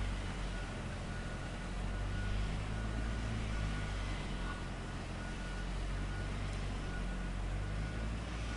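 Heavy construction machinery engine running steadily, with a warning beeper sounding about once a second.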